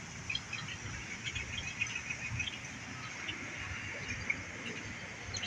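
Birds chirping: short, high chirps scattered throughout, over a steady background hiss.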